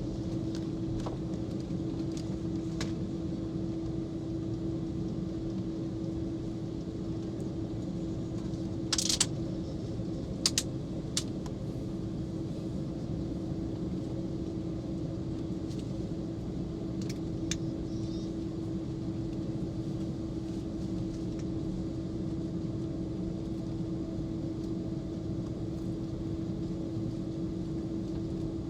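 Steady cabin hum inside an Airbus A330 on the ground, with a constant low tone and no rise in power. A few sharp clicks and knocks stand out about nine to eleven seconds in.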